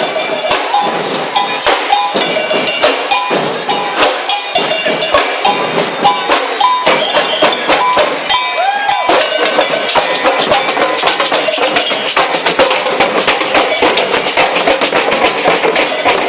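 Procession percussion, drums and a clanking cowbell-like beat, with firecrackers going off among them. From about nine seconds in the firecrackers crackle almost without pause.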